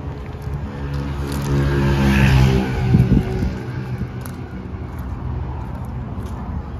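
A motor vehicle's engine running close by, swelling to its loudest about two to three seconds in and then easing to a steady traffic hum, with a single thump near the middle.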